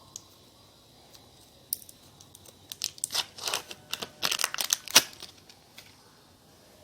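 Factory grip being peeled and unwound from a badminton racket handle: a run of irregular tearing and crinkling sounds, densest in the middle, ending in a sharp rip about five seconds in.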